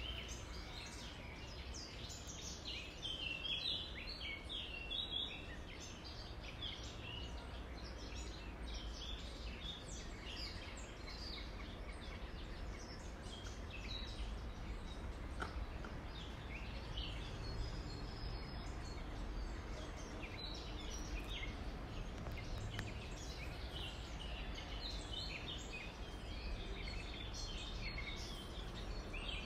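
Outdoor ambience of many small birds calling with short chirps, over a steady low background rumble.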